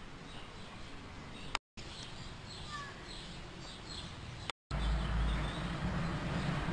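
Faint, short bird chirps over outdoor background noise, broken by two brief dropouts. After the second dropout, near the end, a louder low rumble of wind on the microphone takes over.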